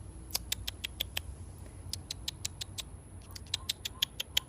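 Rose-breasted cockatoo making kissing sounds: a string of sharp smacking clicks, a few in the first second and a quicker cluster in the second half, over a steady low background rumble.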